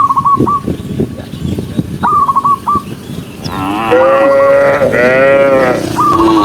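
Cattle mooing: two long, loud lows back to back from about three and a half seconds in, with a shorter one near the end. Short high chirping calls sound twice before them.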